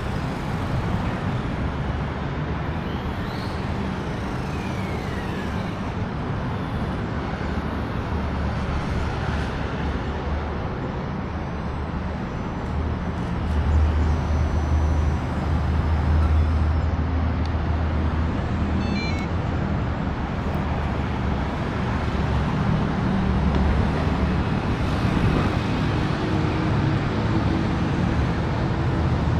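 Steady road traffic noise with a continuous low rumble that swells louder about halfway through and again later.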